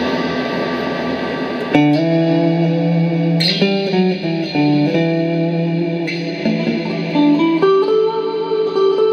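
Clean electric guitar played through a Boss RV-6 reverb pedal and Boss GE-7 equalizer into Roland JC-120 amps. A dense reverb wash gives way about two seconds in to a new chord, followed by picked single notes, each ringing out with a long reverb tail.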